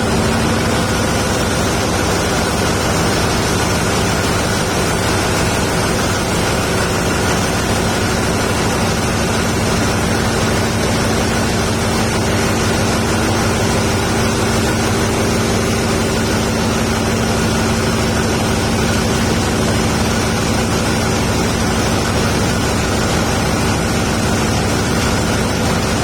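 Large dual-fuel power-plant engine running steadily at constant speed, a loud even mechanical noise with a few steady hums held throughout.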